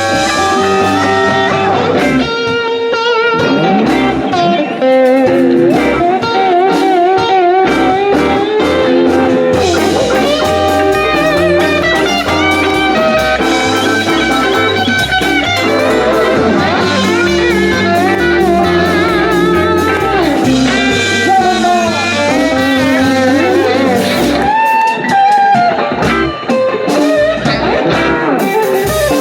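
Live blues-rock band playing an instrumental passage: electric guitar lead with wavering, bent notes over a steady bass line.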